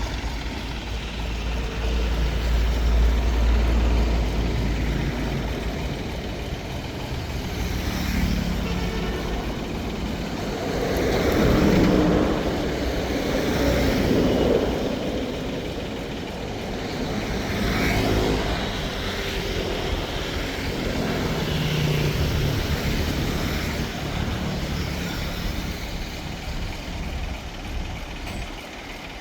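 Engine of a homemade mud suction boat running steadily, its loudness swelling and easing several times.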